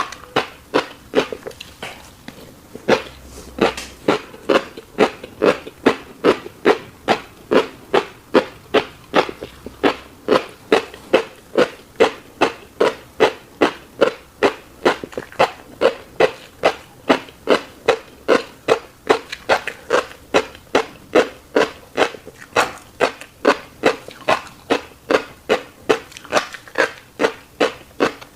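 Close-miked chewing of fish roe with wet mouth smacks, a steady rhythm of about two chews a second.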